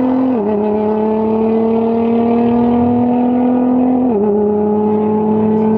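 A car engine accelerating hard, its pitch climbing slowly and dropping sharply at two upshifts, about a third of a second in and again about four seconds in.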